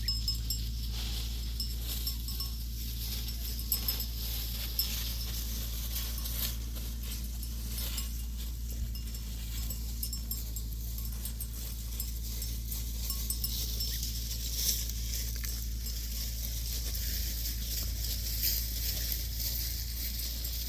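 A grazing flock of sheep and goats, with animal bells clinking now and then, over a steady low rumble.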